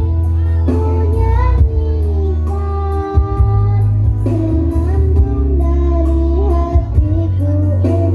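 A song: a singing voice carrying the melody in held and bending notes over instrumental accompaniment with a strong, steady bass.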